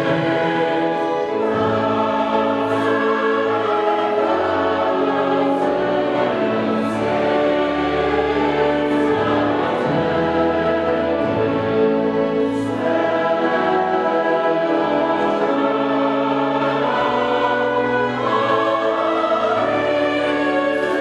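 A choir singing a sacred piece in sustained chords, with the sung consonants coming through every second or two.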